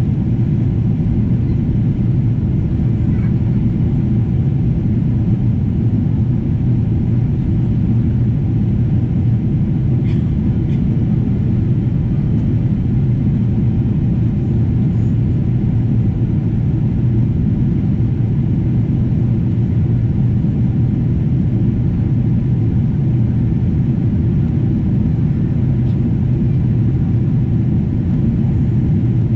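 Steady low rumble of a Boeing 777-200's engines and airflow, heard inside the passenger cabin as the airliner climbs after takeoff.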